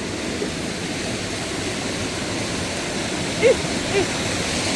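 Steady rush of mountain water running over rocks. A short faint vocal sound comes about three and a half seconds in.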